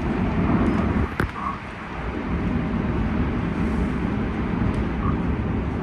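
Tokyu new 5000 series commuter train running, heard from inside the car: a steady rumble of wheels on rail with a sharp click about a second in. There is no clear inverter or motor whine.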